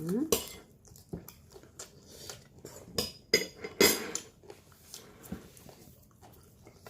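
Tableware clinking and scraping against a plate while eating: a scatter of light knocks and clinks at uneven intervals, the loudest a little before the four-second mark.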